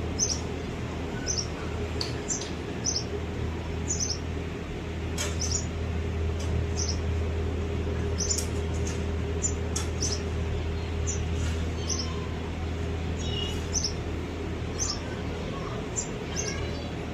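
Small birds chirping: short, high chirps repeated about once or twice a second, over a steady low hum.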